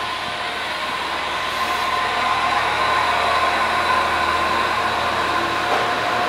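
JR East HB-E300 series hybrid diesel train Kairi pulling away from the platform: a steady machine hum with a high whine over it, growing louder about two seconds in as the cars start to roll past.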